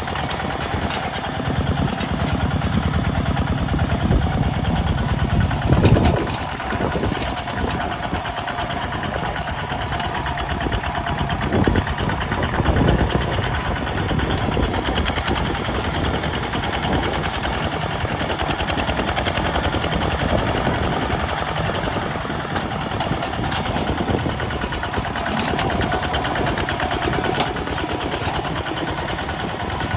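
Kubota RT single-cylinder diesel engine on a walking tractor running steadily with a rapid chugging beat, working a field, with a brief louder swell about six seconds in.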